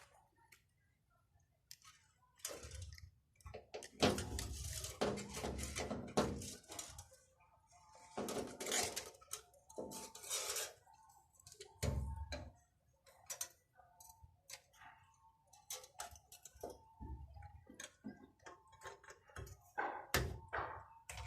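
Irregular clicks, knocks and scraping of small hard parts and tools being handled during a pump motor repair, with short pauses between.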